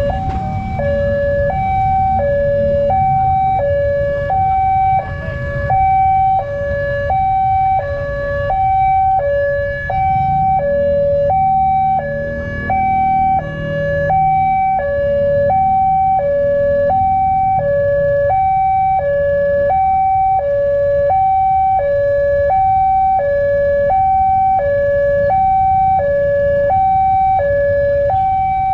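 Electronic railway level-crossing alarm sounding continuously: two tones alternating high-low, each held about half a second, warning that a train is coming. It is an electric bell that has replaced the crossing's broken mechanical bell. A low rumble of engines runs underneath.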